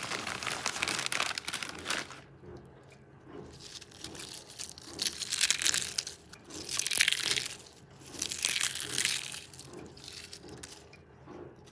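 Crinkling and crunching of Lay's potato chips and their bag up close: a dense crackle for the first two seconds, then three more crunchy stretches in the middle. Between them comes a faint, regular chewing about twice a second.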